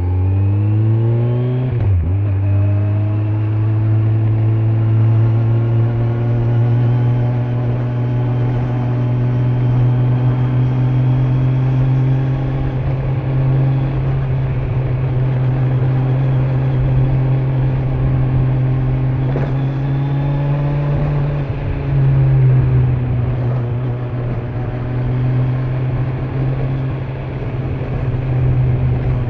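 Kawasaki Z900's inline-four engine pulling the bike along on the road. It winds up, drops pitch at a gear change about two seconds in, then runs at a steady, slowly rising note, with a brief change in the note about two-thirds of the way through, over road noise.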